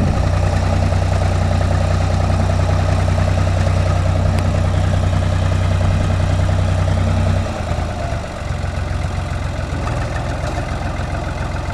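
Tractor engine running with a steady low hum; about two-thirds of the way through the steady note drops away and the sound turns lower and rougher as the tractor sets off on its test drive across the soft, rocked crossing.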